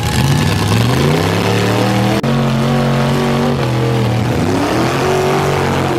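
Big mud truck engine revving hard: the pitch climbs over about a second, holds high for a few seconds, drops, then climbs again near the end.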